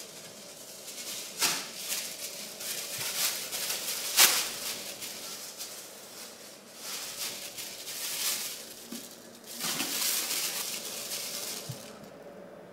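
Plastic bag rustling and crinkling in bursts as loaves of bread are packed into it, with two sharp knocks, the louder one about four seconds in.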